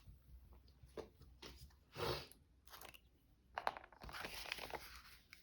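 Paper and craft pieces being handled and placed: faint rustles and crinkles with a few light taps, the loudest rustle about two seconds in and a sharp tap a little after halfway.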